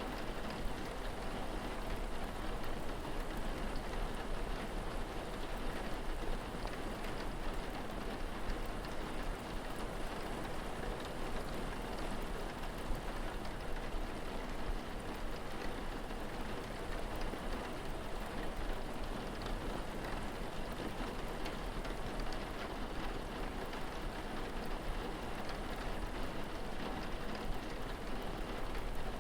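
Steady rain falling, an even hiss with a scattering of faint drop ticks.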